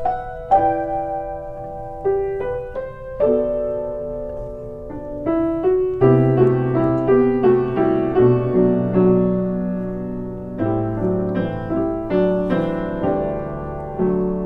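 Upright acoustic piano playing a slow solo introduction: single notes and chords struck and left to ring, growing fuller about six seconds in, with no voice yet.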